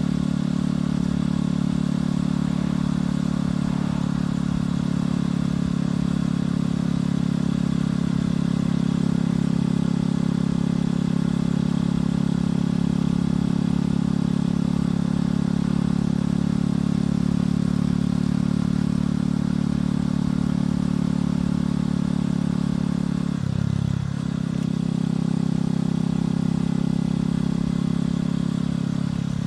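Motorcycle engine and exhaust running steadily under way, with a brief drop in the engine note about three-quarters of the way through before it picks up again.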